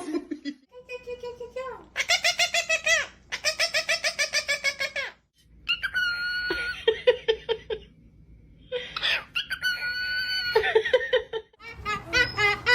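A parrot calling in several bouts of high-pitched calls with short pauses between, two of them rapid runs of short repeated notes, and a wavering call starting near the end.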